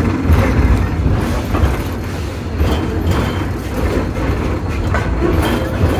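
Train passenger car rolling along the track, with a steady low rumble and irregular clanks and rattles.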